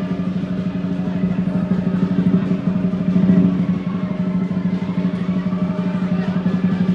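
Lion dance percussion: a large drum beaten in a fast, continuous roll, with steady metallic ringing above it.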